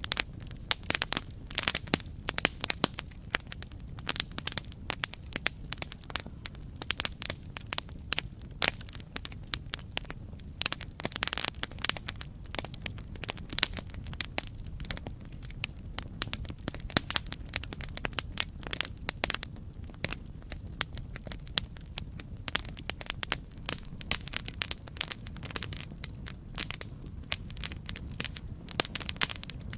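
Campfire crackling: wood burning with dense, irregular pops and snaps over a low steady rumble of the flames.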